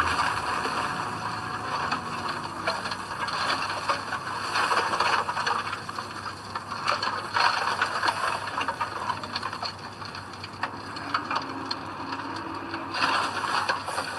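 Earthmoving work on soil: a continuous crackling, rattling clatter with many small clicks and no clear engine note.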